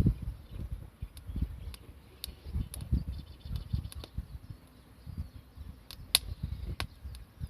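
Campfire crackling, with scattered sharp pops, the loudest about six seconds in, over irregular low rumbles.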